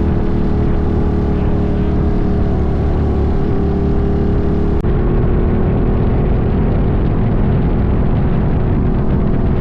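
Ducati motorcycle engine running steadily at a constant speed, the low drone of a ride in progress. The sound changes abruptly about halfway through.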